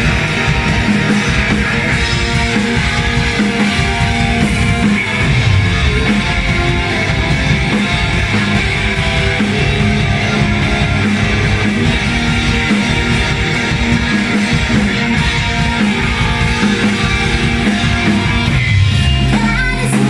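Live rock band playing loud and continuously, with electric guitar over bass and drums, in a passage without vocals.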